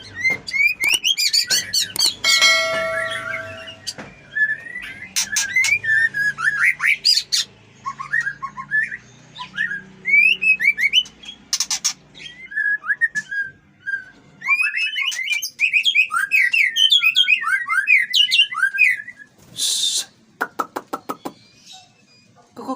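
White-rumped shamas singing: a rapid, varied run of loud whistled phrases that slide up and down. One held note comes about three seconds in. Near the end there is a short harsh note and then a quick rattle of clicks.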